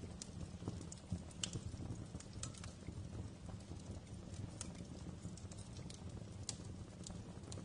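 Wood fire crackling in a fireplace: irregular sharp pops and ticks, several a second, over a steady low rumble of the burning logs.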